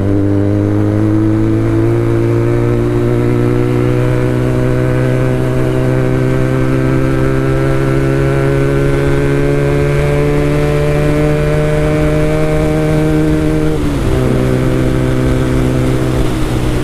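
Benelli TNT 300's 300 cc parallel-twin engine through an Ixil full-system aftermarket exhaust, pulling under way with its pitch climbing slowly. About three-quarters of the way through, the revs fall sharply and it runs on at a steady lower note.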